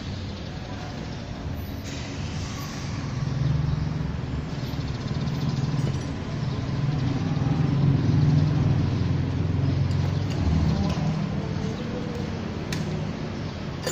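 Low rumble of a motor vehicle engine running, swelling and easing off over several seconds.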